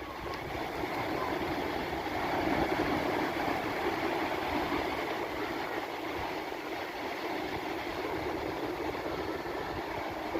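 Sea surf: a steady wash of waves breaking on the shore, swelling up about two to three seconds in.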